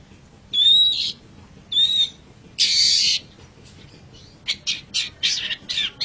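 Long-tailed shrike (cendet) calling: three harsh, scratchy calls about a second apart, the first two with a thin whistled note running through them, then about four and a half seconds in a fast run of short harsh chattering notes, roughly three a second.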